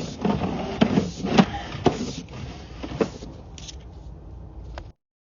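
Irregular knocks and scraping from a sewer inspection camera's push rod being fed into the pipe, over a low rumble. The sound cuts off suddenly about five seconds in.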